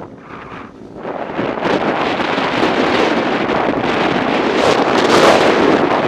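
Heavy wind noise buffeting the microphone while a motorcycle is ridden. The noise drops briefly in the first second, then builds and grows louder.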